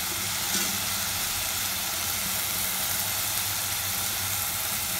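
Chopped onions, tomato and ginger-garlic paste sizzling steadily in oil in an open stainless-steel pressure cooker, over a steady low hum. One light click about half a second in.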